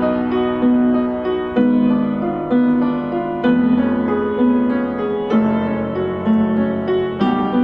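Background piano music: soft, gentle chords struck about once a second.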